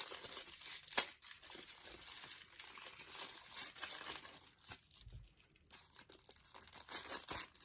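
Packaging crinkling and rustling as it is handled and unwrapped, with one sharp click about a second in; the handling gets quieter in the second half.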